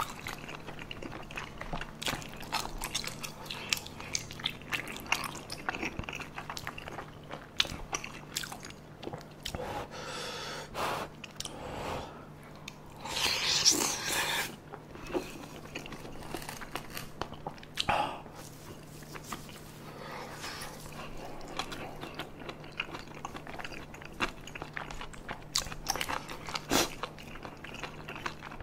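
Chewing of spicy tteokbokki rice cakes, fish cake and boneless chicken feet: many short wet clicks and smacks of the mouth. About halfway there is a longer slurp of the sauce from a spoon, the loudest sound here.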